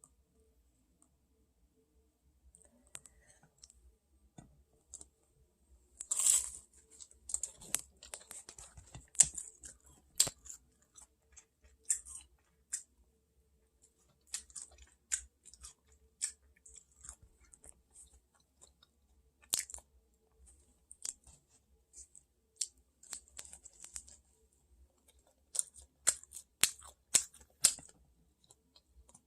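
A person eating close to the microphone: irregular chewing and crunching, heard as scattered sharp crackly clicks that come thickest about a third of the way in and again near the end.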